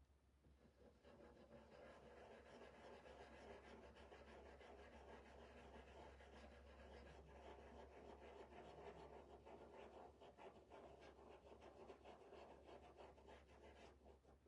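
Faint, continuous scratchy rubbing of a stencil brush working paint through a stencil onto the surface, starting about a second in.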